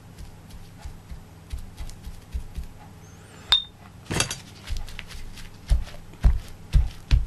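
Small clinks and taps of painting tools: a sharp glass-like clink about halfway, then a run of dull knocks, roughly two a second, toward the end, over a steady low hum.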